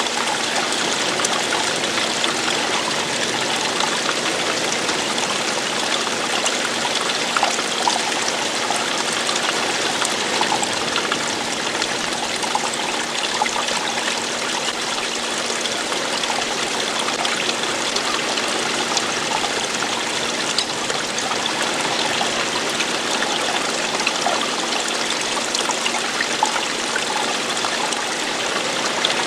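Running water, a stream splashing and trickling over itself in a steady, unbroken rush.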